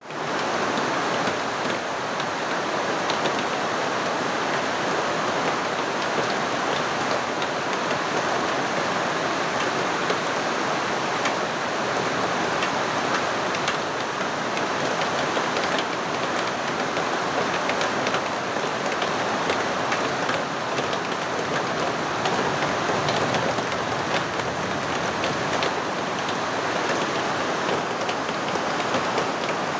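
Monsoon rain falling steadily, an even hiss with the fine patter of individual drops throughout.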